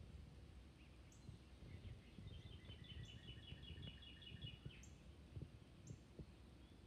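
Near silence with a faint bird trill about two seconds in: a quick run of short repeated high notes lasting about two seconds, plus a few single faint chips.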